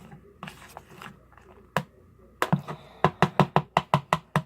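A spoon tapping against a mixing bowl of slime mixture: one sharp tap near the middle, then a quick rhythmic run of taps, about five a second, over the last two seconds.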